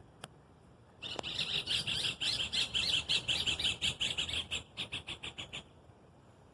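A bird singing one long burst of rapid, repeated high notes, starting about a second in and lasting roughly four and a half seconds, the notes coming faster near the end. A single faint click sounds just before the song.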